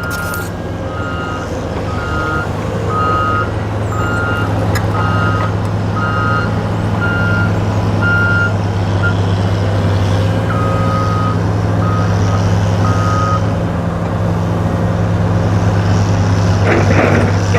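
Heavy equipment's backup alarm beeping about once a second over a steady diesel engine. The beeping stops partway through, starts again briefly, and there is a short clatter near the end.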